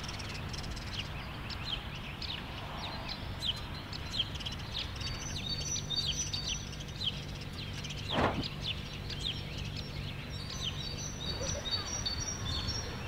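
Many small birds chirping, short quick calls one after another, over a steady low hum. A single sharp knock a little past eight seconds in.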